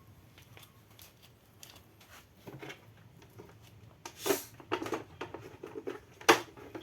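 Irregular handling clicks and knocks, with two louder knocks about four and six seconds in.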